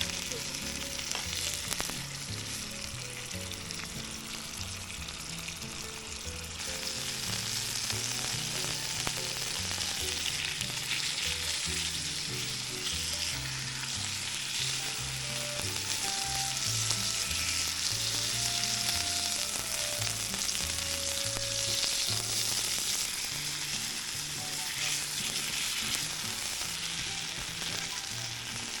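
Steady sizzling and crackling, growing louder about six or seven seconds in, under soft background music with a slow bass line.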